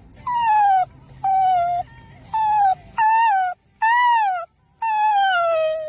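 A dog whining and wailing in a run of about six short high calls, each falling in pitch, with one arching up and down near the middle.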